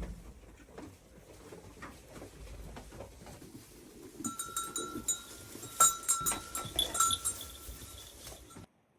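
A livestock bell clanking again and again from about four seconds in, among shuffling and knocking. Everything cuts off suddenly near the end.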